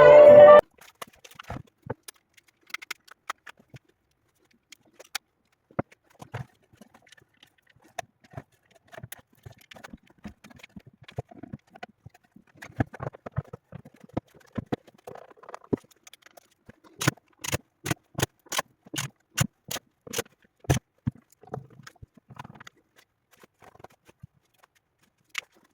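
Music cuts off about half a second in. Then come scattered sharp clicks and light taps of hard objects being handled, with a quicker run of about two clicks a second near the middle to later part.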